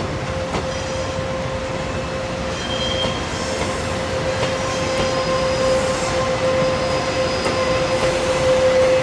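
A train moving on the rails with a steady squealing tone from its wheels, slowly growing louder, and brief higher squeals above it.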